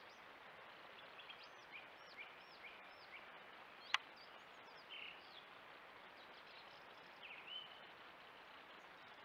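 Faint, steady hiss with scattered short, high chirping bird calls, a quick run of them in the first few seconds and a few more later. A single sharp click just before four seconds in is the loudest sound.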